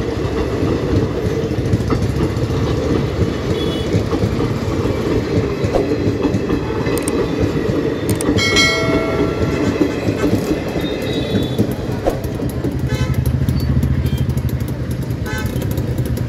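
Passenger train coaches passing at speed through a level crossing: a continuous loud rumble and clatter of steel wheels on the rails. A horn sounds briefly about eight and a half seconds in.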